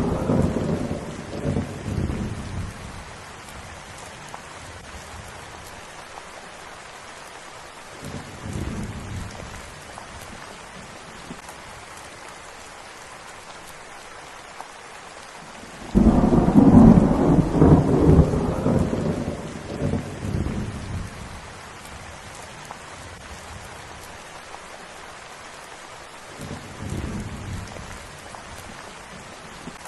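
Steady rain with rolling thunder. A rumble fades out at the start and a faint one comes about eight seconds in; a loud peal breaks in suddenly halfway through and rumbles on for about five seconds; a faint rumble comes near the end.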